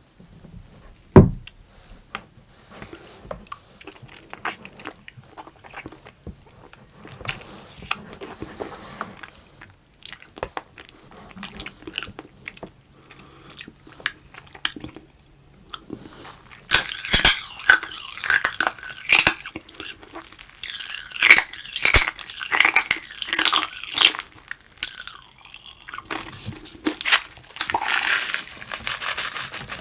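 Close-miked eating sounds: a low thump about a second in, then soft mouth clicks and chewing, turning to loud, dense crunching and chewing from about halfway through.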